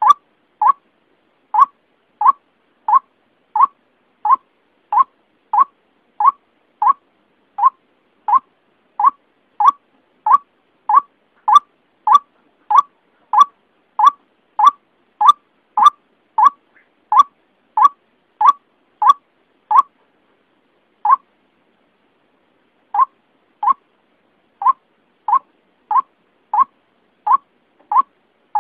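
White-breasted waterhen (ruak-ruak) lure call: short notes repeated steadily, about one and a half a second. There is a brief pause about two-thirds of the way through, broken by a single note.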